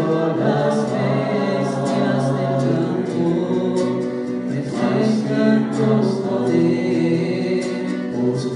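Worship song: several voices singing together over soft instrumental accompaniment.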